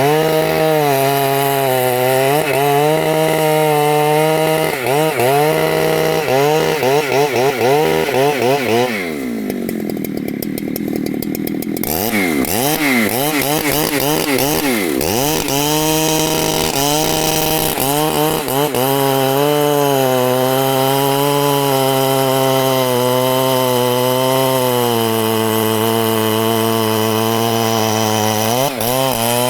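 Husqvarna two-stroke chainsaw cutting rain tree wood, its revs rising and falling as the chain loads in the cut. About nine seconds in the revs drop away for a few seconds. The saw then comes back up to speed and runs steadier through the cut.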